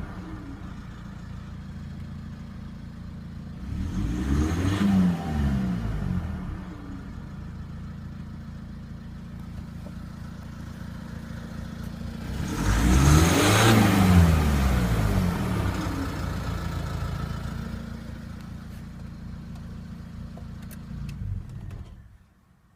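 Renault Laguna 2's remapped 2.0 dCi four-cylinder diesel through a straight-piped exhaust that keeps its catalytic converter, idling and revved twice in free rev: a short blip about four seconds in and a longer, louder rev about twelve seconds in, settling back to idle each time.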